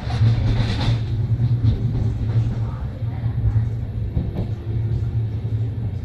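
Double-deck sleeper train running, a steady low rumble from the wheels and heavy, well-sprung cars as heard from inside, with a short hiss at the start.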